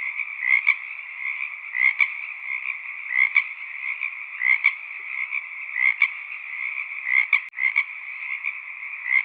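A chorus of frogs calling: a steady high-pitched din, with one louder double-note call repeating about every second and a half.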